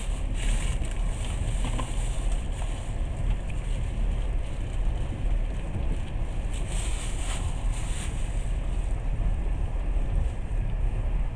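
Moving passenger train heard from inside the carriage: a steady low rumble with rushing noise, and a hiss that swells near the start and again about seven seconds in.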